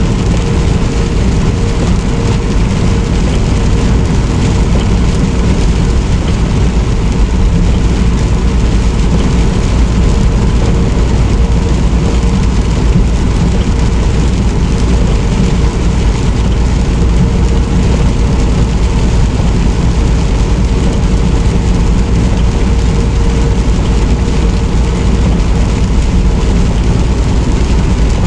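Steady road noise inside a semi-truck cab while driving in the rain: the engine's low drone with a steady hum, mixed with the hiss of tyres and rain on the wet road.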